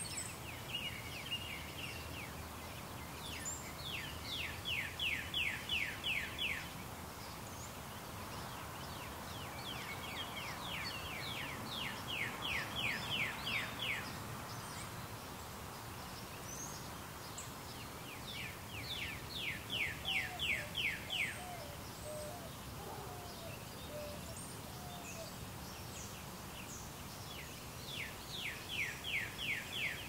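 A songbird singing a phrase of fast, repeated down-slurred whistled notes, about three a second, every seven or eight seconds, over a steady hiss from the camera's automatic gain control.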